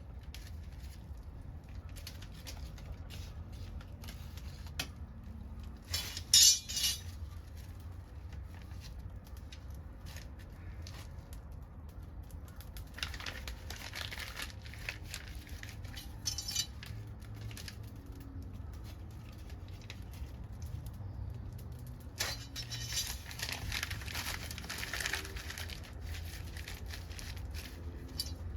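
Backyard bonfire of scrap wood crackling, with scattered sharp pops and a loud burst of crackling about six seconds in, over a steady low rumble.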